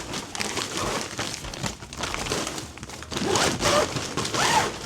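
Large plastic storage bag crinkling and rustling as an artificial Christmas tree is packed into it.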